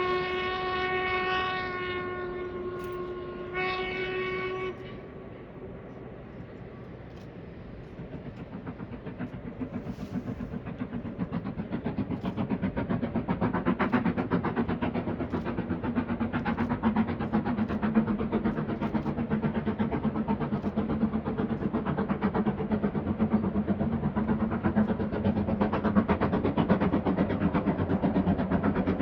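Steam locomotive whistle blown twice, a long blast then a shorter one. Then the train's fast rhythmic running beat builds up and grows steadily louder as it approaches.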